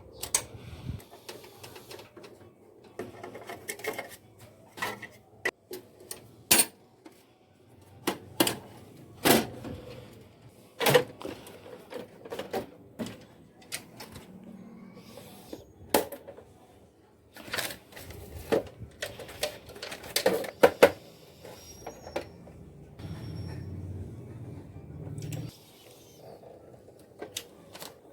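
Irregular clicks and knocks of plastic and metal copier parts being handled during a repair. A low hum lasts a couple of seconds near the end.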